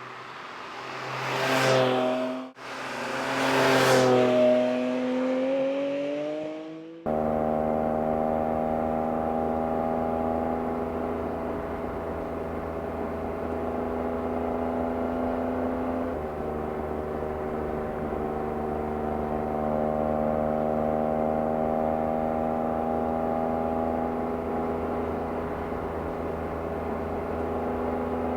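Porsche 718 Cayman GT4 RS's naturally aspirated flat-six passing close by twice in quick succession, its exhaust note falling in pitch as each pass goes by. Then comes a steady engine drone at a constant pace, with a small drop in pitch about halfway through and a slow rise in pitch a little later.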